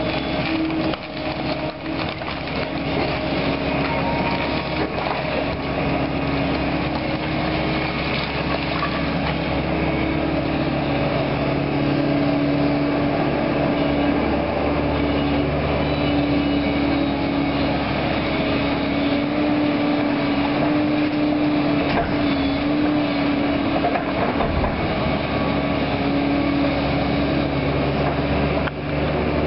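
Engine of a heavy demolition machine running steadily under load, with wood debris cracking and crunching as it is broken up and moved.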